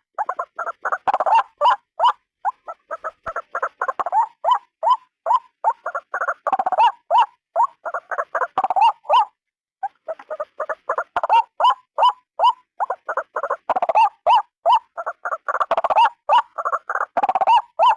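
White-breasted waterhen calling: a fast, unbroken run of short repeated notes, about four or five a second, that pauses briefly about halfway through and then resumes.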